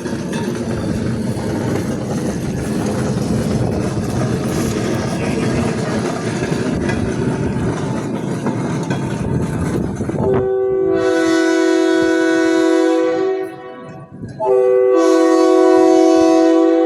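A train rumbling along the rails. About ten seconds in, a multi-chime railroad air horn sounds two long blasts, a chord of several steady notes, with a short gap between them.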